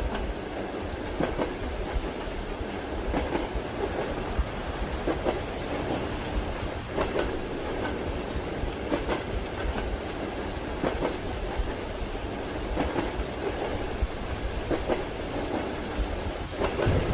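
Train wheels clacking over rail joints, a short double knock about every two seconds, over the steady rumble of the moving carriage and falling rain.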